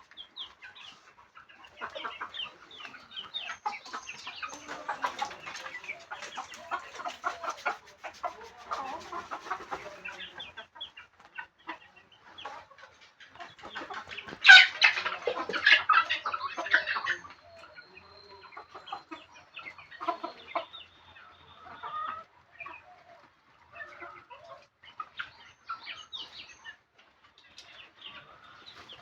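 Chickens clucking and chattering as they feed, with many short calls overlapping and a louder burst of calls about halfway through.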